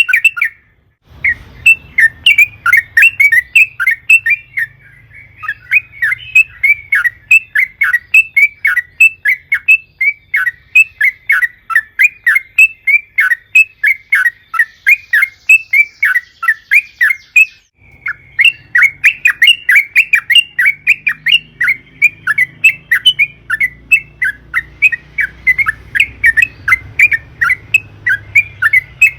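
Sooty-headed bulbul singing in long runs of rapid, repeated short chattering notes, pausing briefly about a second in and again past the middle.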